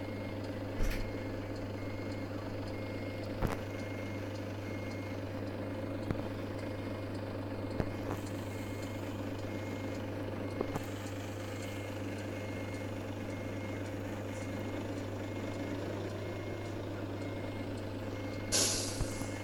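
Volvo truck engine running steadily while a short, high electronic beep repeats about once a second, the pattern of a reversing alarm. A short burst of air hiss comes near the end.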